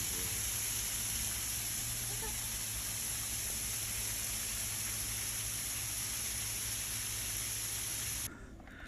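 A steady, even hiss that cuts off abruptly near the end.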